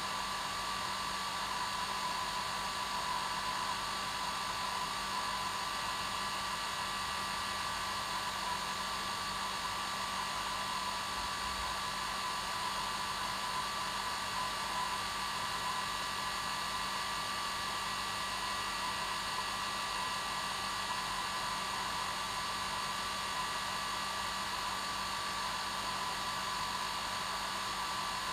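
Hair dryer running steadily: an even whooshing air noise with a constant motor whine, unchanging throughout.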